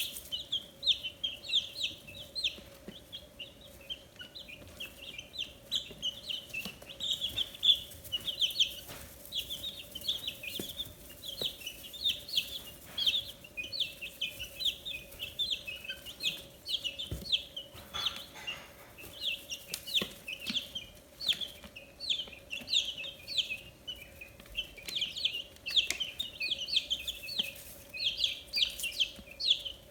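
A brood of 15-day-old chicks peeping without pause: many short, high, falling chirps overlapping one another, over a faint steady hum.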